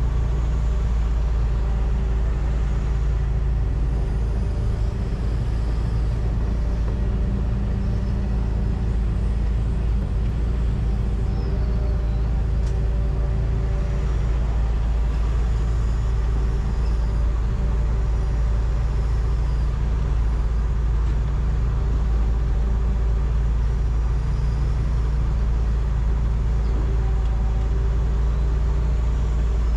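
John Deere 245G excavator's diesel engine running steadily under load, heard from inside the cab, a deep, even drone with a faint steady whine above it.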